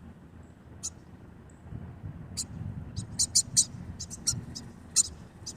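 Small birds chirping in short, sharp, high notes, a few scattered at first and then a quick run of chirps from about two seconds in, as they squabble over food.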